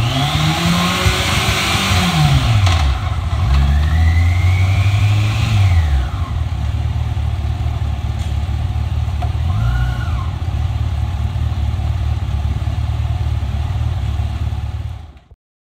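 Yamaha FJR1300's inline-four engine revved up and down several times, then settling to a steady idle with one short blip of the throttle about ten seconds in, before the sound cuts off suddenly near the end.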